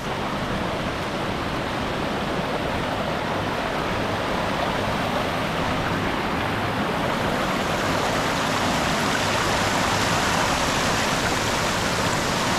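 Waterfall: a steady rush of falling water, growing a little louder toward the end.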